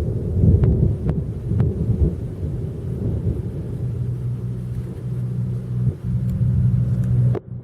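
Thunder rumbling in uneven low swells, giving way about four seconds in to a steady low hum.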